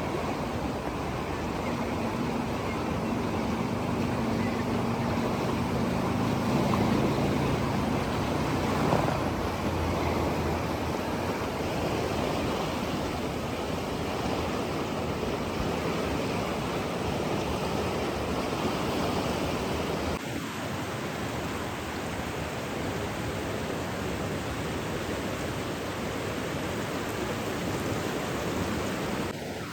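Steady rushing water, an even noise like surf or a stream, with a faint low hum in roughly the first third. About twenty seconds in the sound changes slightly and becomes a little quieter, as if passing to another water recording.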